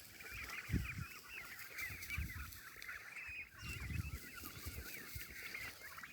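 A flock of young domestic turkeys, about 65 days old, calling continuously with many overlapping high chirps and peeps. A few short low thumps occur, the loudest under a second in.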